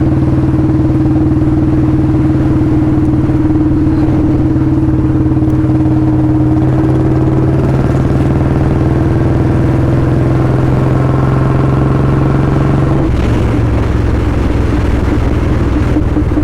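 Royal Enfield Bullet 350's single-cylinder engine running through a free-flow L-bend pipe and Long Punjab silencer while riding, loud and holding a steady note; about thirteen seconds in the note drops lower as the revs fall.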